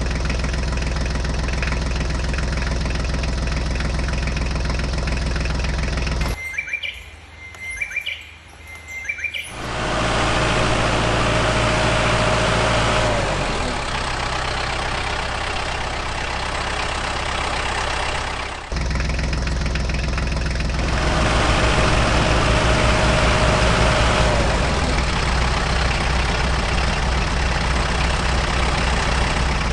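Remote-control toy tractor running with a steady engine-like drone. About six seconds in, the drone drops out for roughly three seconds and birds chirp.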